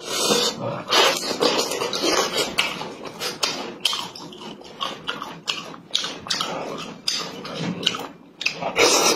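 Close-up eating sounds: wet chewing and lip-smacking on boiled chicken, an irregular run of moist clicks and smacks.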